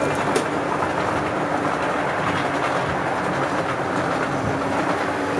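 O gauge model train running along the track: a steady rumble of metal wheels on the rails with a faint steady hum.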